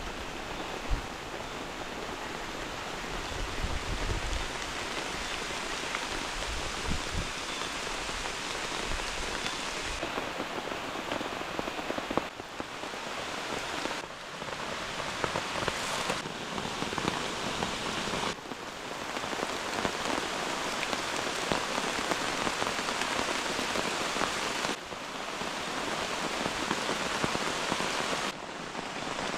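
Heavy rain pouring down in a dense, steady patter, with a low rumble in the first third. The level drops and shifts abruptly several times.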